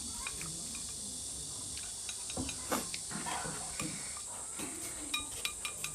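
A person eating: soft chewing sounds with small sharp clicks and taps, a quick run of them near the end, over a steady background hiss.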